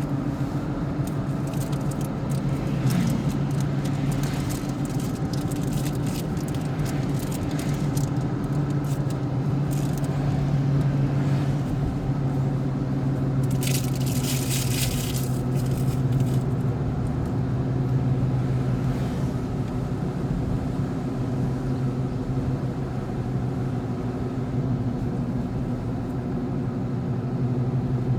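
Vehicle driving on a wet road, its engine giving a steady low drone under road noise, with scattered light taps. A brief hiss comes about halfway through.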